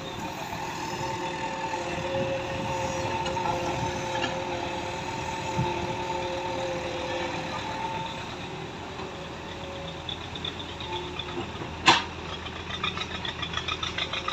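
JCB digger's diesel engine running steadily while digging. A single sharp knock comes about twelve seconds in, the loudest moment, after which the engine note takes on a regular pulsing of about three beats a second.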